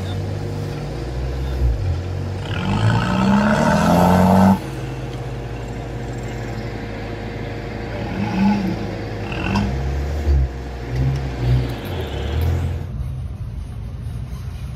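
Off-road 4x4 engine revving under load as the vehicle climbs out of a muddy water hole. One rev rises in pitch for about two seconds and cuts off abruptly; several shorter revs follow. Near the end the sound drops suddenly to a quieter, steady engine note.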